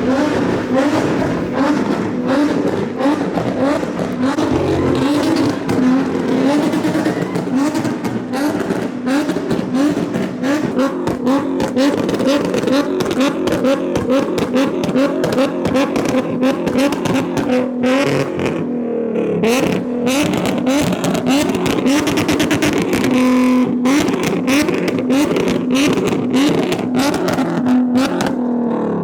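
Car engine being revved hard over and over in quick rises and falls, with a stream of sharp exhaust pops and crackles, going crazy and echoing off the alley walls.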